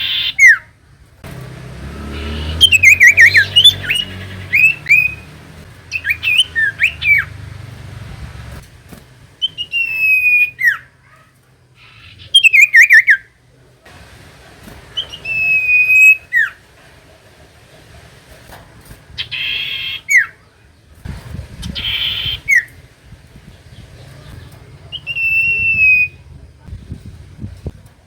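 Common iora singing: short whistled notes repeated again and again, most sliding down in pitch, with two short harsh rasping calls about two-thirds of the way through.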